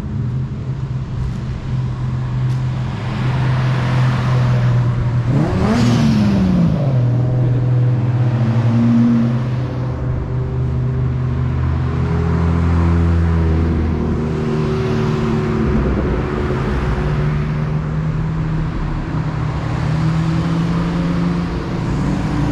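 Car engines running at idle, with one engine's pitch rising and falling about six seconds in.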